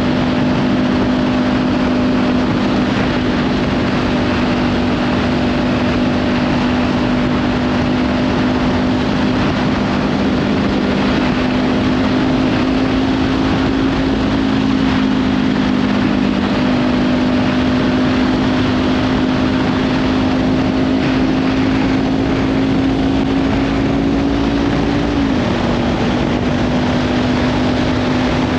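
Kawasaki Ninja 500 parallel-twin engine with a Leovince slip-on exhaust running at steady cruising revs, its pitch creeping slowly up and then dropping suddenly near the end, under heavy wind noise on the microphone.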